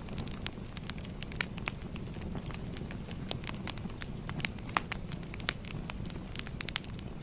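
Wood fire burning: a steady low rumble with irregular crackles and sharp pops several times a second.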